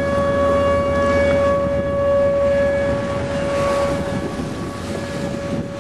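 Outdoor civil-defense warning siren holding one steady tone, fading slightly near the end, over a low rumble of wind.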